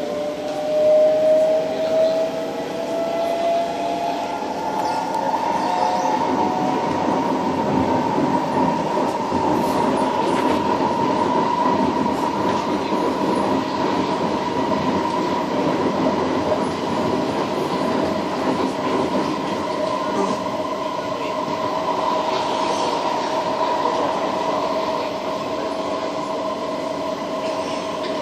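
SMRT C151A metro train's VVVF inverter and traction motors whining as the train picks up speed: several tones rise in pitch over the first few seconds, then level off into a steady whine over the rumble of wheels on rail.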